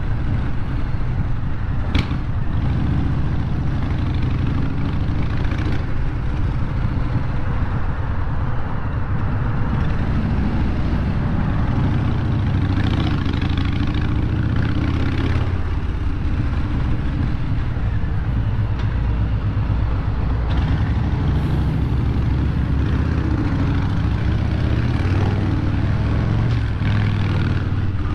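Harley-Davidson V-twin engine running loud through its exhaust pipes at low speed, with a sharp click about two seconds in.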